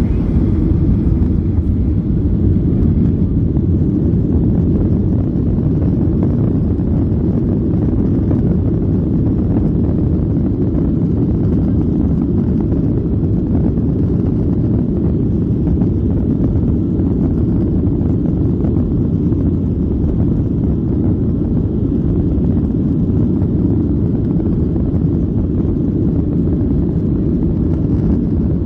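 Boeing 737-900 jet engines (CFM56-7B turbofans) at takeoff power: a steady, loud, low rumble with no change in level.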